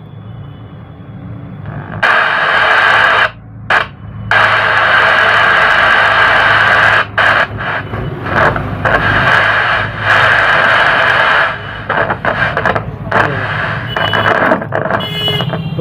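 Loud hiss of FM-radio static played through a speaker by a repaired dual-4440 audio amplifier, starting about two seconds in. It cuts out briefly twice soon after and breaks up with crackles near the end. The hiss shows the amplifier is passing sound again.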